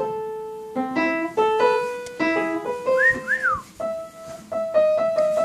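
Piano music, a steady run of single notes, with a cockatiel giving two short whistles that rise and fall about three seconds in.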